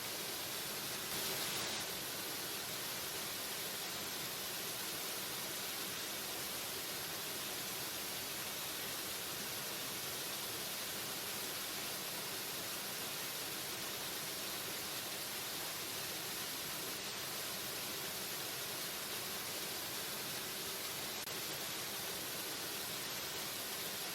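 Steady rushing of a waterfall: continuous falling water with no pauses, its hiss bright in the upper range, swelling slightly about a second in.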